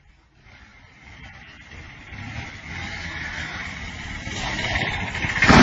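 A motor vehicle's engine growing steadily louder as it approaches, then a loud sudden noise near the end.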